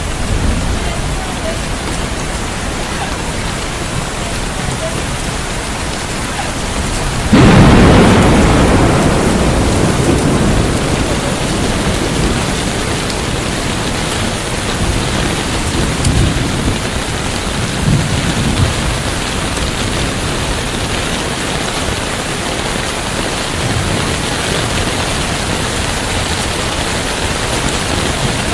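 Steady heavy rain with a sudden loud thunderclap about seven seconds in that rumbles away over several seconds. Softer rumbles of thunder follow twice, around the middle.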